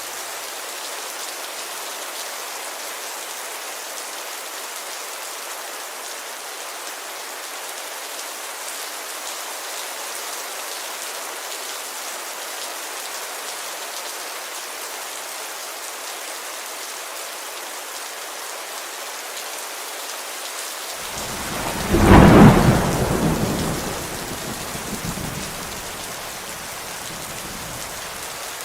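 Steady rain falling on a window. About three-quarters of the way through, a sudden clap of thunder, the loudest sound, breaks in and rumbles away over the next three seconds or so.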